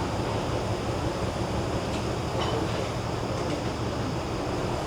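Commuter train running with a steady low rumble, with a few faint clicks in the middle.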